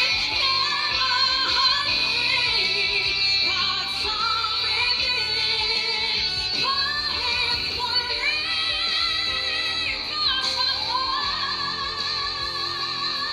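Female solo vocal singing a ballad over band accompaniment, gliding between notes and holding long notes with vibrato in the second half.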